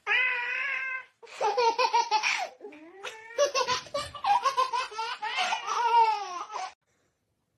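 A young child laughing in quick high-pitched bursts, opening with a held squeal of about a second.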